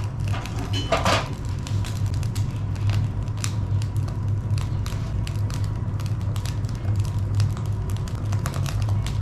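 Small campfire crackling, with irregular sharp pops and ticks over a steady low hum.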